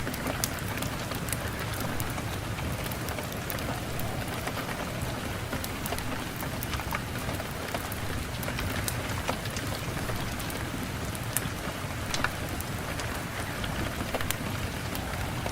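Steady rain falling, with scattered sharp crackles and pops of a wood fire throughout.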